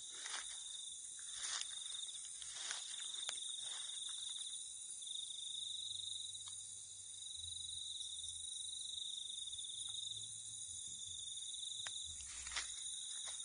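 Insects trilling: one continuous high-pitched trill that wavers slightly in pitch, over a higher steady hiss of other insects, with a few faint clicks.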